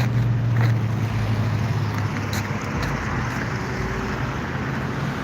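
Street traffic noise from passing cars, a steady wash with a low hum under it.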